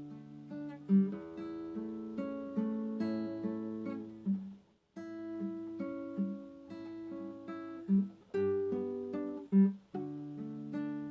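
Acoustic guitar (violão) playing slow, calm plucked notes and chords. The sound drops out briefly a little under halfway through, then the playing picks up again abruptly.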